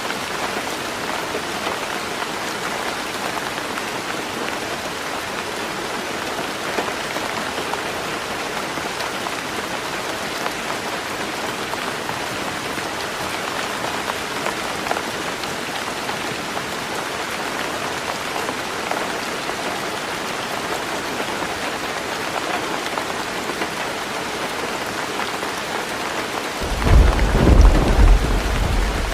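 Heavy rain drumming steadily on a tin roof. Near the end a deep rumble of thunder rolls in and grows louder.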